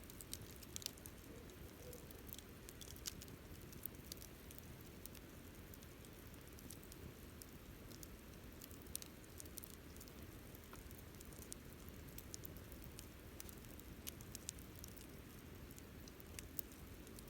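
Wood campfire burning: faint, irregular crackles and sharp pops over a low steady rush of the fire.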